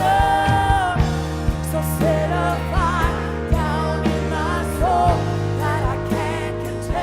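Live worship band playing a slow song, with a voice singing long, wavering notes over held low chords and steady drum beats.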